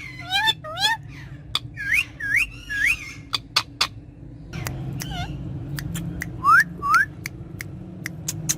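Indian ringneck parakeet giving short rising whistles in groups of two or three, among many sharp clicks.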